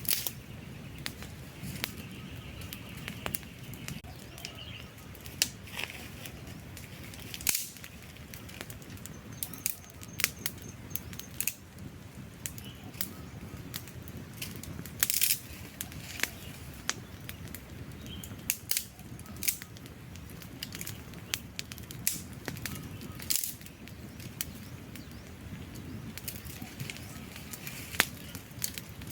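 Wood campfire burning with irregular crackles and sharp pops over a steady low roar of flames. A few louder pops stand out, about seven and fifteen seconds in.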